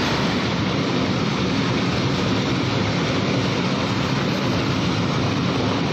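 Open freight wagons of a very long goods train rolling past at speed: a steady rumble and rush of wheels on rail, with no single clack or horn standing out.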